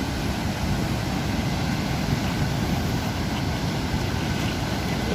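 Sea surf with wind on the microphone: a steady, flickering low rumble with a wash of noise over it.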